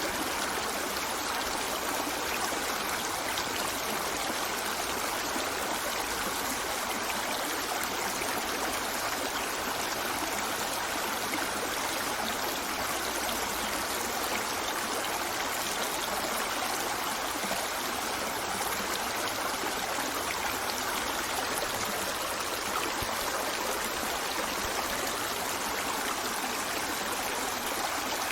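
Water running steadily, an even rushing noise that doesn't change.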